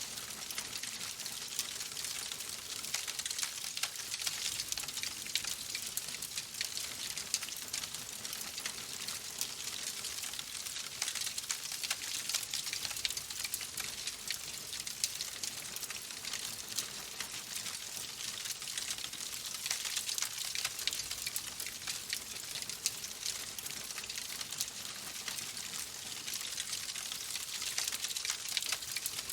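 Fireplace fire crackling steadily: a dense stream of small pops and snaps over a soft hiss.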